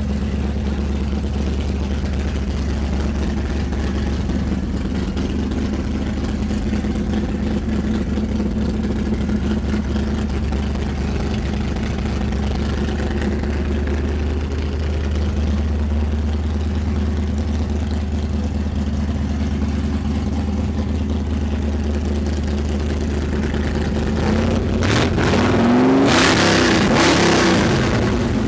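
Plymouth Satellite's modified V8 engine idling steadily, then revved hard once near the end, the pitch rising and dropping back to idle.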